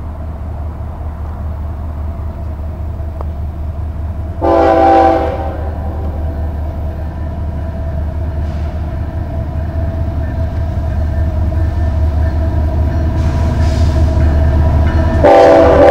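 Union Pacific freight train's diesel locomotive approaching, its low engine drone growing steadily louder. A short horn blast sounds about four and a half seconds in, and another starts near the end.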